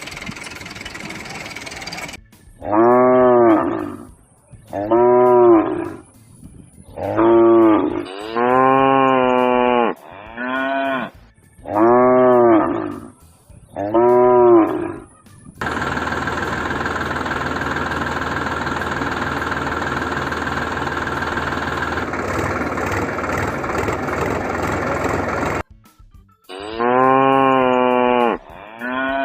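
Cow mooing, a string of about seven short moos one after another, then more moos near the end. In between, about ten seconds of a steady, even noise replace the calls.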